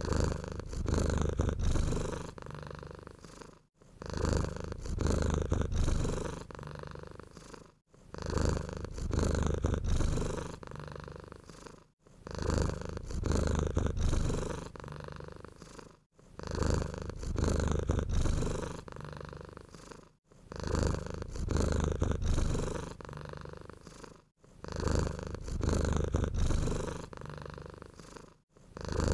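Domestic cat purring, a low rumble that swells and fades with each breath in a regular cycle about every four seconds.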